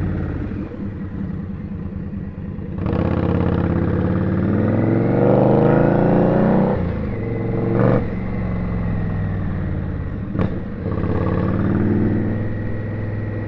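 Indian Scout's V-twin engine pulling away and accelerating: the engine note climbs in pitch, drops abruptly as it shifts up, then climbs again near the end. Two short sharp knocks come partway through.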